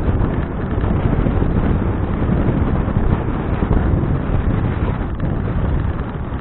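Wind buffeting the microphone of an action camera on a moving bicycle: a steady, loud, low rumble.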